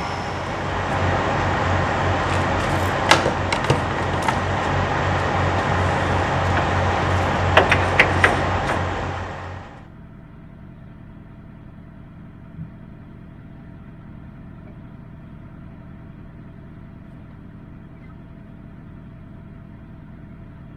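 Kenworth W900 semi truck running, with a steady low engine drone, road noise and a few sharp clicks. Just under ten seconds in, this cuts off abruptly to a much quieter steady hum.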